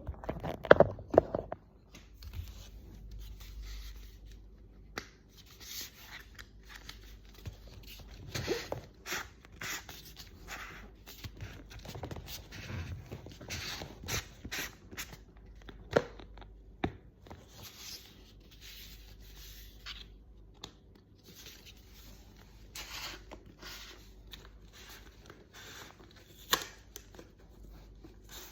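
Cardboard box and packaging being unpacked by hand: scattered tearing, scraping and rustling strokes with a few sharp clicks.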